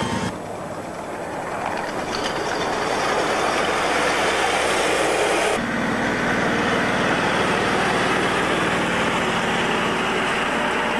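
A miniature ride-on railway train running with a steady mechanical noise. About halfway through it cuts abruptly to a lower, steadier running hum.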